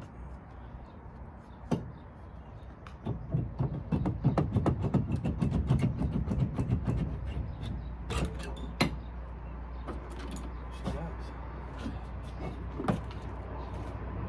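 Metal clunks, knocks and scrapes as a loosened cylinder head is worked free and lifted off the engine block after a blown head gasket. There is a busy run of knocking in the middle and a few single sharp knocks before and after it.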